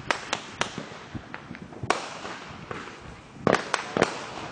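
Firecrackers going off: a run of sharp bangs at irregular intervals, with several coming close together near the end.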